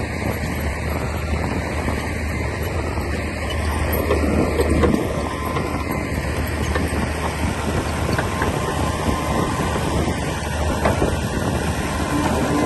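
Komatsu D60P crawler bulldozer at work: a steady diesel engine drone with a dense mechanical rattle, swelling louder briefly about four seconds in.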